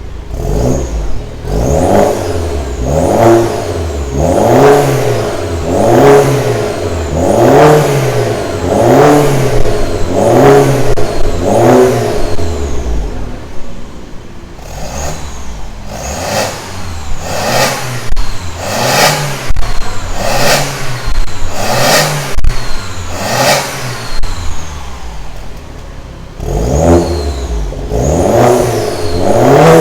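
BMW F30 engine revved repeatedly through a full stainless-steel exhaust with a custom downpipe, the pitch rising and falling about once every second and a half. In the middle comes a run of short, sharp throttle blips, and near the end the slower rises and falls return.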